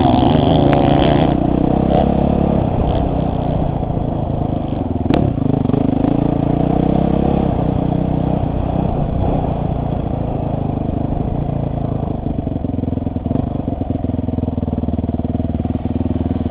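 Motocross bike engine coming down off a blip of throttle at the start, then running steadily at low revs. There is a single sharp click about five seconds in.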